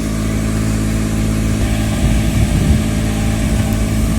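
Car engine running at a steady speed with road noise, heard from inside a moving car.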